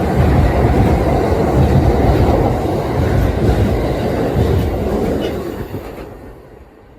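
Kintetsu electric train passing at speed, its wheels rumbling and clacking over the rail joints, then fading away over the last couple of seconds.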